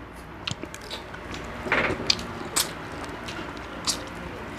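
A person chewing crispy deep-fried rice-field frog close to the microphone, with a handful of short crunches scattered through.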